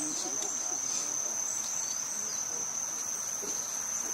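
Steady high-pitched insect trill, like a cricket or cicada, holding one unbroken tone.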